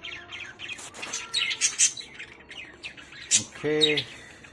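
A flock of caged budgies chirping, many short, high, rapid calls overlapping throughout, with a few louder squawks.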